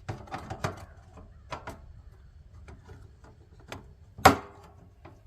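Scattered small clicks and knocks of metal heater parts being handled and fitted by hand, with one louder knock about four seconds in.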